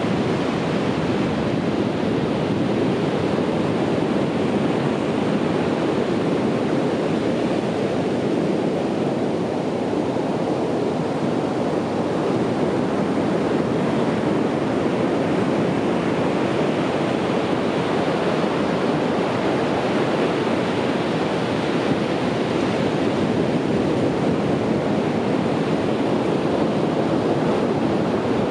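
Sea waves breaking and washing on a beach, a continuous surf rush with only slight swells in loudness.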